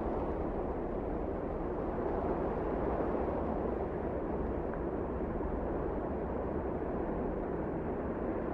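Wind blowing in a steady, unbroken rush, heaviest in the low and middle range.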